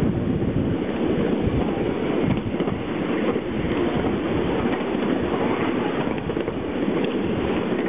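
A train running: a steady, unbroken noise, heaviest in the low range.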